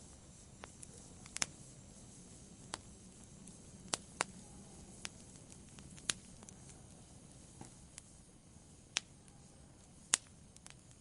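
Campfire burning quietly: a soft low rush of flame with sharp, irregular pops and crackles of burning wood, roughly one every second or two.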